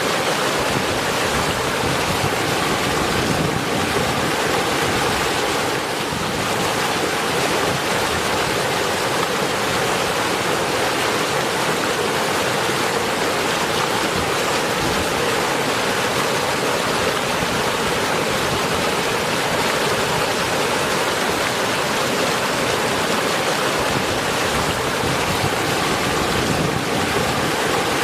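Rain falling steadily: an even hiss with no single drops or thunder standing out.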